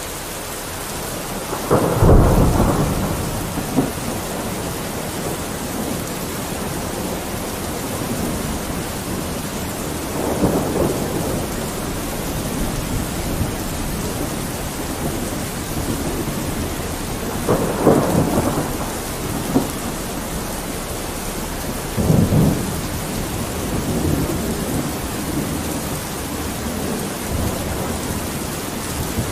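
Steady rain on a window, an even hiss, with four short low rumbles spread through it, the first the loudest.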